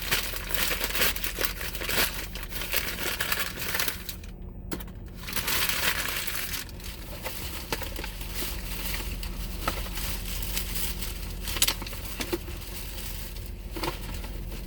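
Close-up crinkling and crunching, dense and irregular with sharp crackles, with a brief lull about four and a half seconds in.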